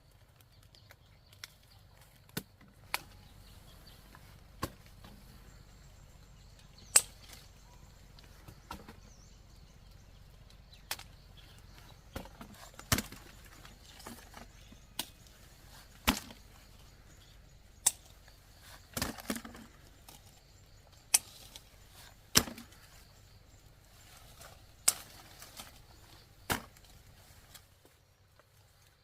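A blade chopping into wood: single sharp strikes, one every one to three seconds and uneven in force, with a short flurry of lighter hits about two-thirds of the way through.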